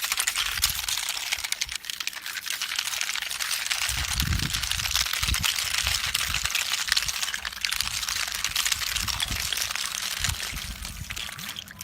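Garden hose spitting out ice with the water: a steady crackling hiss full of small clicks as ice bits clatter out, with a few low thumps about four and five seconds in.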